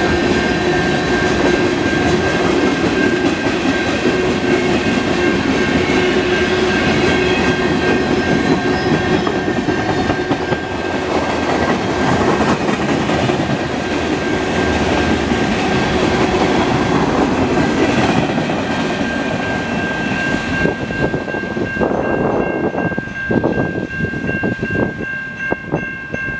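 Freight train cars (tank cars and covered hoppers) rolling past: steel wheels rumbling and clicking over the rails, with a steady high ring over it. A few seconds before the end the rumble thins as the last car goes by, leaving scattered clicks.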